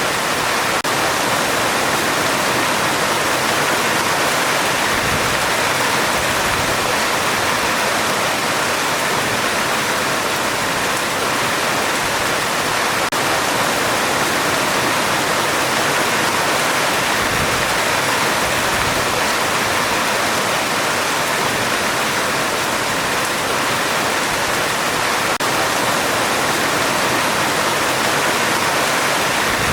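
Heavy rain falling on a metal roof, a steady, even downpour.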